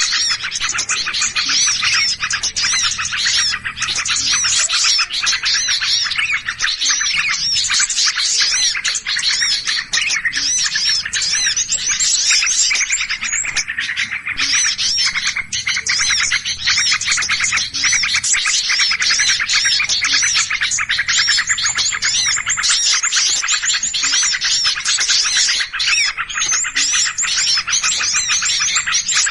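A dense chorus of many small birds chirping rapidly and without pause, the agitated 'ribut' calls of a bird-luring recording meant to draw other small birds in.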